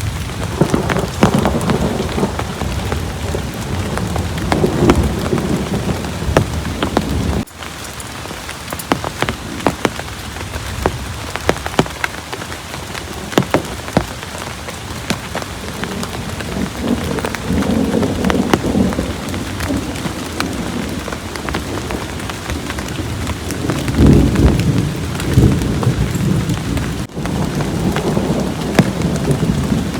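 Heavy rain, with many sharp drop hits close by. Low rumbles of thunder swell and fade several times, strongest at the start and again near the end.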